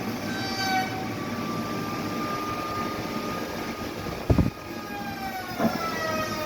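Heavy sawmill machinery running with a steady whine, a heavy knock a little over four seconds in, and a smaller knock at about five and a half seconds, where the whine drops in pitch.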